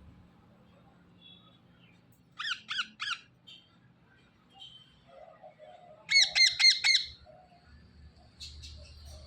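Green parrots squawking: three quick shrill calls about two and a half seconds in, then a louder run of five rapid calls around six seconds in, with a few softer chirps between.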